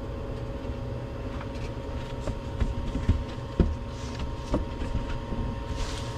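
Steady mechanical hum with a couple of steady tones, and a few scattered knocks and clicks, strongest about three to four and a half seconds in.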